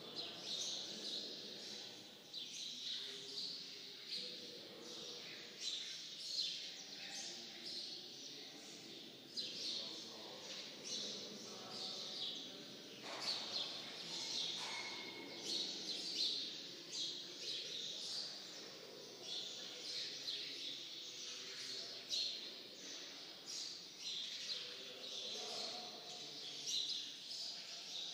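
Many small birds chirping rapidly and continuously in quick overlapping calls.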